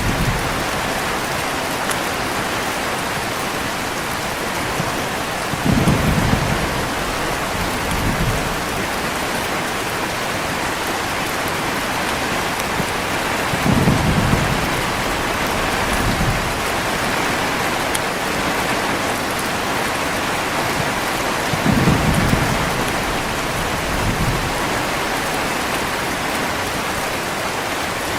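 Heavy rain falling steadily, with short low rumbles of thunder breaking through about every eight seconds, three times. Each stronger rumble is followed a couple of seconds later by a fainter one.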